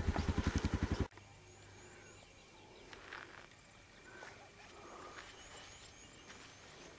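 A loud, rapid low thudding, about nine beats a second, cuts off abruptly about a second in. After it comes faint open-air background with small birds chirping: runs of short high chirps and a few lower whistled notes.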